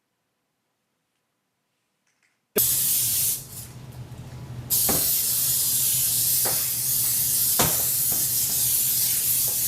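Silence, then about two and a half seconds in a loud, steady hiss like white noise or static starts and runs on, dipping briefly after about a second, with a few faint clicks.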